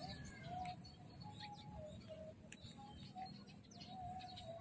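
Faint bird calls: a run of short wavering notes with scattered high chirps.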